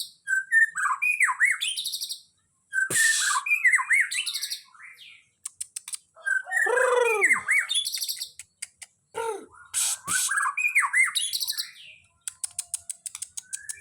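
Songbird singing loud, varied phrases of arching whistled notes and high rattles, in bursts broken by short pauses, with runs of rapid clicking notes around the middle and near the end.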